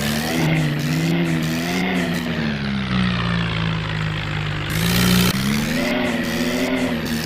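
A vehicle engine sound revving up and down over and over, its pitch rising and falling about once a second, with a brief hiss about five seconds in.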